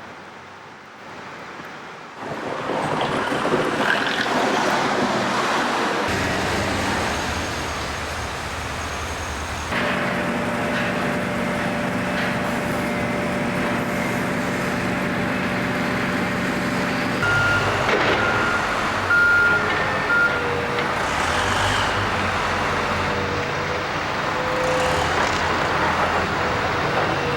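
Street noise dominated by heavy vehicle engines, with a truck's steady engine hum through the middle and a short run of repeated high beeps a little after that.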